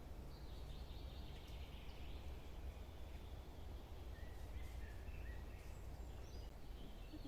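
Forest birds singing faintly: a rough, trilling phrase from about half a second in for a couple of seconds, then a string of short clear notes in the second half, over a steady low rumble.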